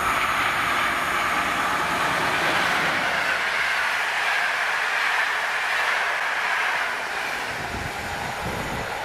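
A train running past on its track: a steady, even rolling noise of wheels on rails that eases slightly about seven seconds in.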